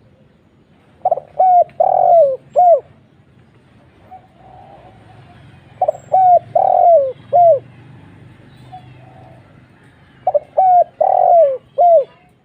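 Spotted dove (tekukur) cooing, a loud, deep call repeated three times. Each phrase is four notes: two short, one long falling, then a single short closing note, the one-'kuk' ending that fanciers prize.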